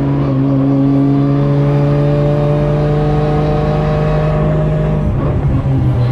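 Drift car's engine heard from inside the caged cabin, running at low revs with a slowly rising pitch, changing note about five seconds in.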